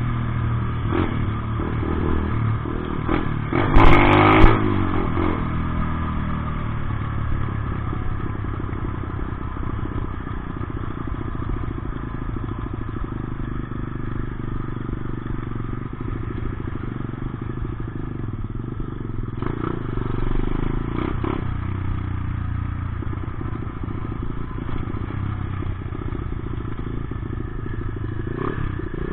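Dirt bike engine running under way, rising and falling with the throttle, with a brief loud burst of noise about four seconds in.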